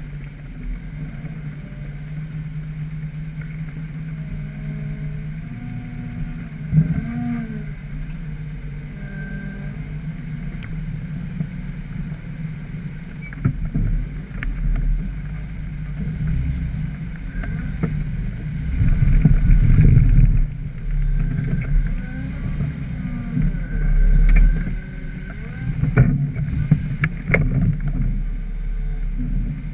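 Jeep 4x4 engine running at low revs while crawling through mud, pitch rising and falling, with several louder bursts of throttle in the second half.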